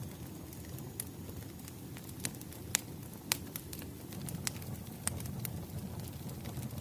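Firewood burning: a steady low rumble of flames with sharp crackles and pops at irregular intervals, the loudest two a little under and just after three seconds in.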